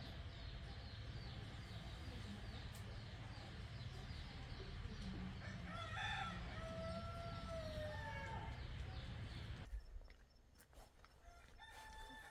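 A rooster crows once, a long drawn call about halfway through, over a steady rumbling background with a fast high ticking. Near the end the background drops away suddenly and short, softer bird calls follow.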